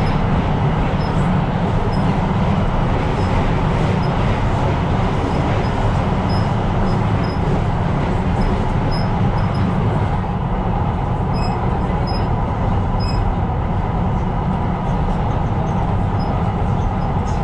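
Tyne & Wear Metrocar running along the line: a steady rumble of wheels on rails, with brief faint high squeaks dotted through it.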